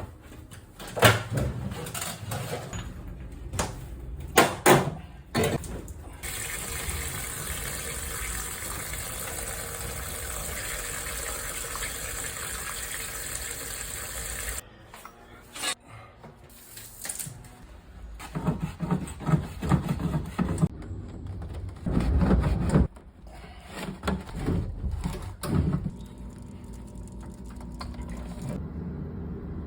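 Water rushing through heating pipework with a steady hiss for about eight seconds, between bouts of knocks and clatter from the plumbing work.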